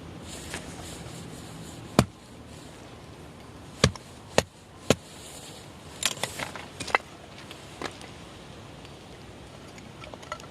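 Firewood being split by chopping: four sharp, loud strikes spaced about half a second to two seconds apart, then a quick run of lighter knocks.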